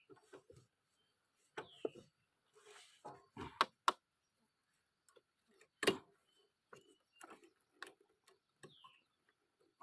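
A blade chopping at woody stems: a handful of sharp, irregular knocks with pauses between them, the loudest about six seconds in.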